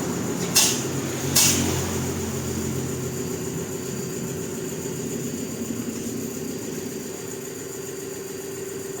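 Engine idling steadily. Two short, sharp hissing bursts come within the first second and a half.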